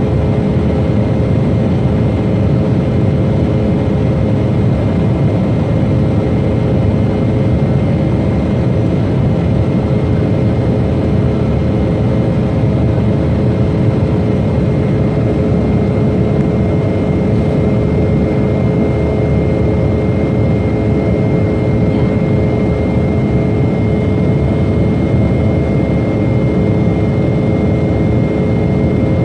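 Jet airliner engines running at a steady power: a constant deep rumble with a fixed whine over it that neither rises nor falls.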